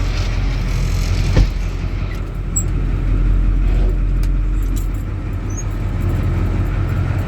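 An old school-bus-type engine in a truck idling steadily just after a cold start. There is a single sharp knock about a second and a half in.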